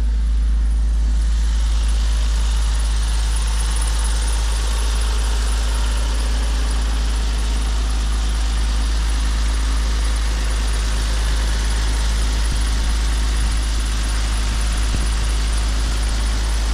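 1998 Toyota Supra's non-turbo 3.0-litre 2JZ-GE VVT-i inline-six idling steadily, heard close over the open engine bay from about a second in.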